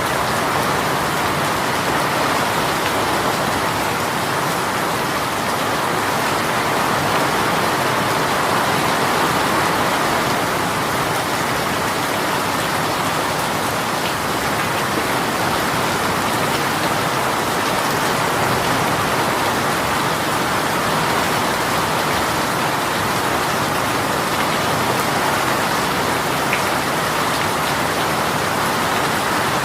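Heavy rain shower falling steadily, an even wash of rain on surfaces with no let-up.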